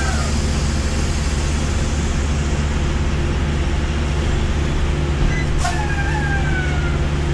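Semi-truck's diesel engine running with a steady low drone. About five and a half seconds in, a sharp click is followed by a brief high tone that slides slowly downward.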